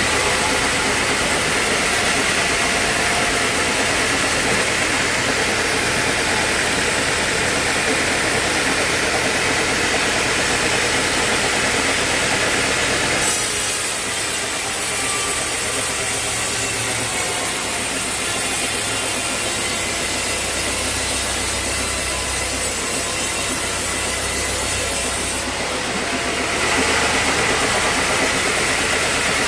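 Sawmill saw cutting an old teak log, with the mill machinery running steadily underneath. The high cutting noise eases off a little under halfway through and comes back a few seconds before the end.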